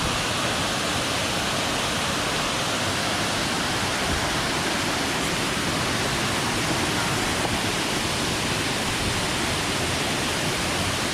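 Waterfall: falling water making a loud, steady rush that doesn't change.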